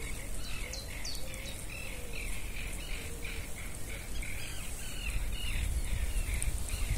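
A songbird singing a run of short repeated chirping notes, about three a second, with a few high sliding whistles near the start. A low rumble sits underneath.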